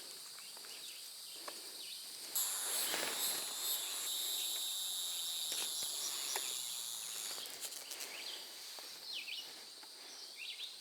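An insect buzzing steadily and high-pitched for about five seconds, starting about two seconds in and stopping, with faint rustling and a few light clicks around it.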